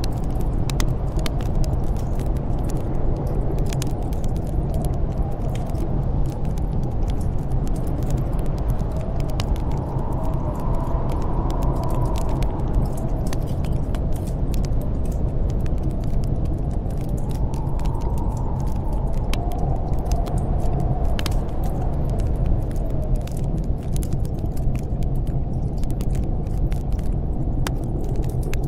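Snowstorm wind blowing steadily with a low rumble, and a howl that rises and falls twice; a wood fire crackles with scattered small pops.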